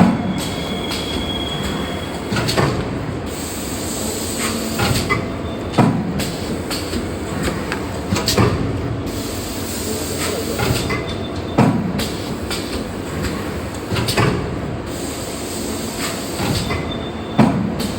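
A 30-ton hydraulic paper plate and tray forming machine running, a steady mechanical hum with a sharp clunk about every three seconds as the press cycles.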